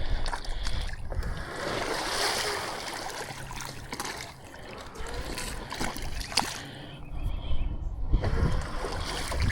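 Thick wet mud splashing and squelching, with scattered sharp clicks.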